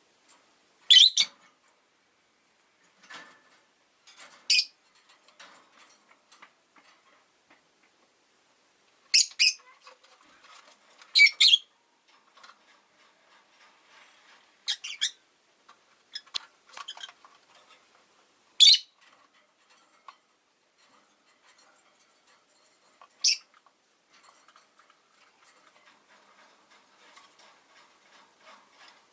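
Rosy-faced lovebirds calling: short, sharp, high-pitched chirps, about nine loud ones scattered irregularly, with quieter chattering in between.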